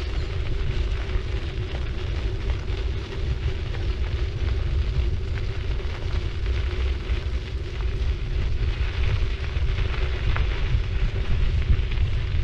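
A city bicycle rolling along at riding speed: tyres crackling and crunching on the road surface over a steady low hum, with heavy wind rumble buffeting the action camera's microphone.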